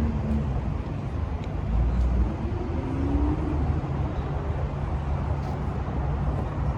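Car engines running at a busy parking-area car meet: a steady low rumble, with one engine's note rising about two and a half seconds in.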